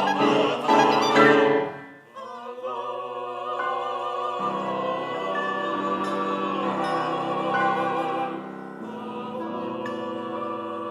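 Contemporary chamber music for a vocal quartet with flute, clarinet, electric guitar and piano. Voices sing loudly together with vibrato and break off sharply about two seconds in, then softer held chords follow.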